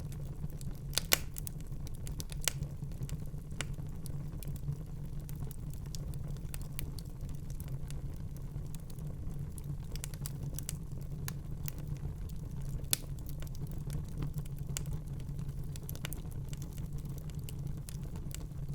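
Wood fire crackling in a fireplace: a steady low rumble of the flames with scattered sharp pops and snaps, the loudest about a second in and again about 13 seconds in.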